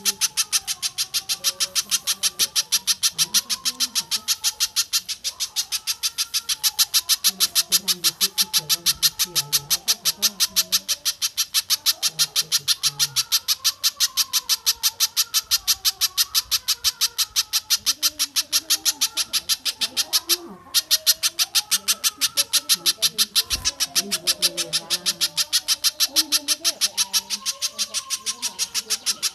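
Recorded bird calls: a fast, even run of sharp, high-pitched notes, about five a second, with lower wavering calls underneath, breaking off briefly about two-thirds through.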